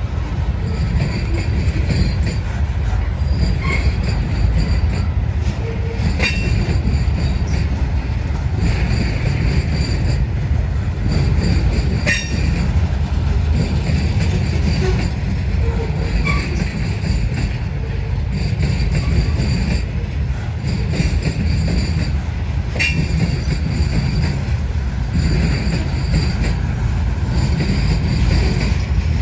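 Herzog ballast train rolling past: a steady heavy rumble of freight cars with sharp clicks of wheels over rail joints now and then and a faint high wheel squeal coming and going.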